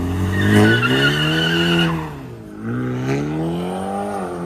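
Car engine revving hard with the tires squealing for about a second and a half early on. The revs drop, then climb and fall again in a second rev.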